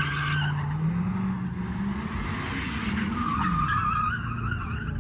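Car engine revving with tires squealing on pavement. A loud squeal dies away in the first half second, the engine note climbs and drops back about halfway through, and a shorter squeal comes near the end.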